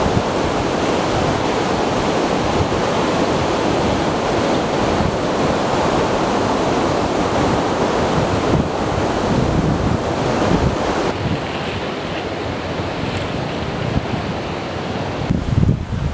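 Heavy surf breaking and washing on a beach, with strong wind buffeting the microphone.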